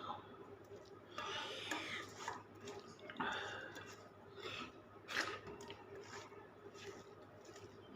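A person eating dal and rice: two short breathy, wet rushes of slurping and chewing, then a few small clicks. A steady low hum runs underneath.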